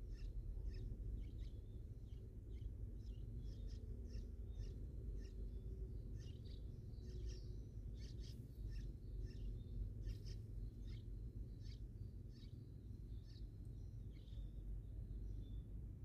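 Small birds chirping: many short, high chirps, several a second, over a steady low rumble and a faint, steady high whine.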